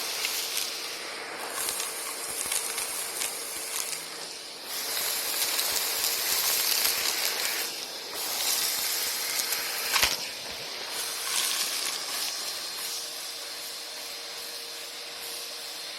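Vacuum cleaners running and sucking up a big mess: a steady high rushing hiss with a faint steady tone under it, swelling louder in the middle, and one sharp knock about ten seconds in.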